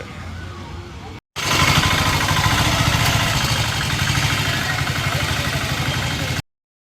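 Low street background, then a vehicle engine running at idle with a steady, rapid beat, cut off abruptly near the end.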